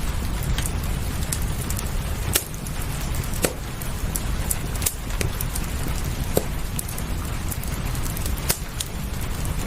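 Wood fire crackling, with sharp irregular pops, over steady rain and a low rumble.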